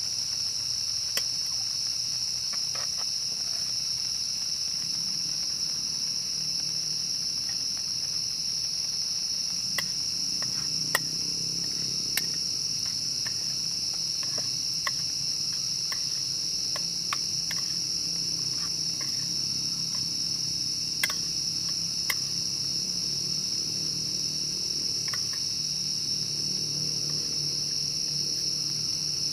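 Steady high-pitched chorus of insects, likely crickets, droning without a break. A dozen or so scattered sharp clicks sound over it.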